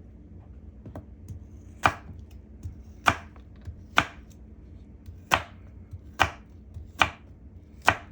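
Kitchen knife chopping Gala apples on a cutting board: seven sharp chops, about one a second.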